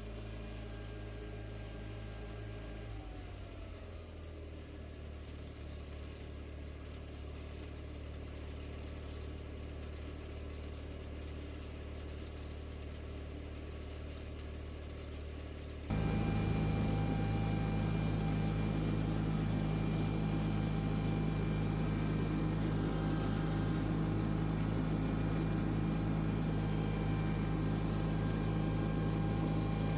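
John Deere 318 garden tractor's engine running steadily. About three seconds in, its pitch drops as the engine slows. A little past halfway the sound jumps abruptly louder and then stays steady.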